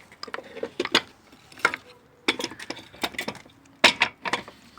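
Metal engine parts and tools clinking and knocking as they are handled and sorted, in a run of irregular sharp clicks.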